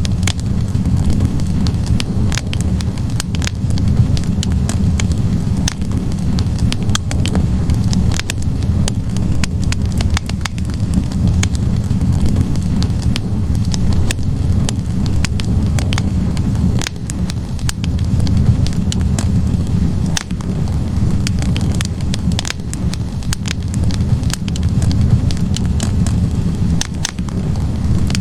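Wood fire burning in a fireplace: a steady low rumble of flames with frequent irregular pops and crackles from the logs.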